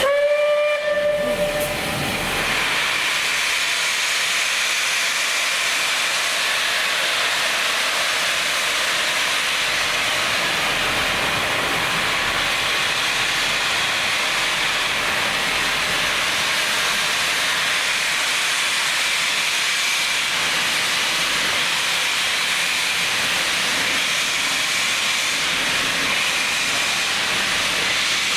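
A steam locomotive gives a short whistle blast at the start, then steam hisses steadily and evenly with no exhaust beats while the engine stands.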